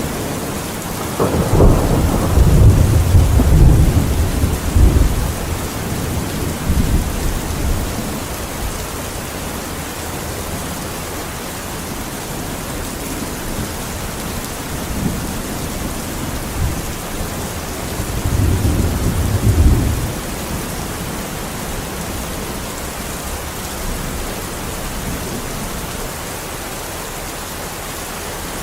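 Steady heavy rain with rolls of thunder: a long deep rumble starting about a second in and dying away over several seconds, and a shorter one a little past the middle.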